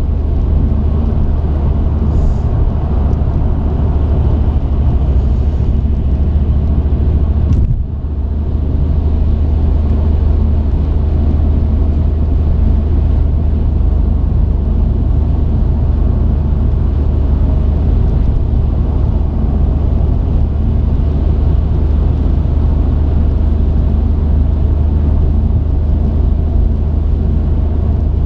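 Truck engine running with road noise, a steady low drone, with a brief dip in level about eight seconds in.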